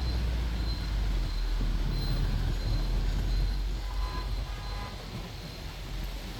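Double-decker tour bus running through city traffic: a steady low engine and road rumble. There is a faint high beep repeating about every 0.7 seconds, and a brief horn toot about four seconds in.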